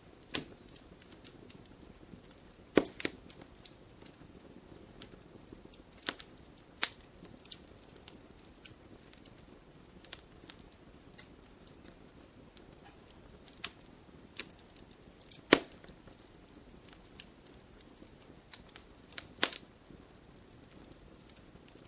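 Campfire crackling: irregular sharp pops and snaps of burning wood over a soft steady hiss, with a few louder pops, the loudest a little past the middle.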